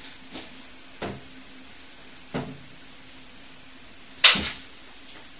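Sharp knocks in a flat, three plain ones about a second, two and a half and four seconds in, the last the loudest, over a faint steady hum.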